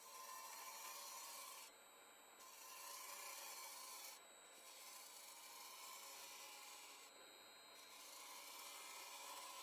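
Faint hiss of a turning gouge cutting the foot of a spinning wooden bowl on the lathe, in four passes of about two seconds, each broken off by a short pause.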